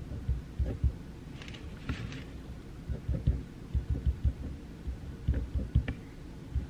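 Pencil writing on paper at a desk, heard close: irregular soft low taps from the strokes, with a short scratchier stretch about a second and a half in.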